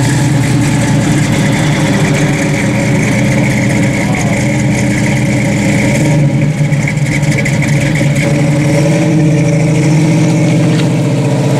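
Plymouth 'Cuda's 440 V8 idling loudly and steadily as the car creeps along at low speed.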